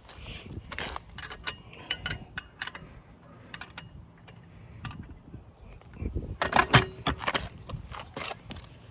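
Irregular metallic clinks, clanks and rattles of hand tools and jack equipment being handled, with a dense burst of clatter about six seconds in.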